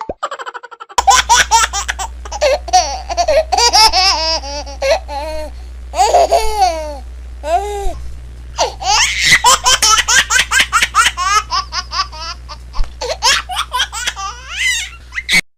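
Laughter sound effect laid over the picture: a long run of high, giggly laughing that starts abruptly about a second in and cuts off suddenly near the end.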